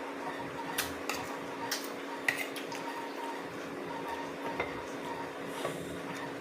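Cutlery clinking against a plate a few times during a meal, over a steady low hum.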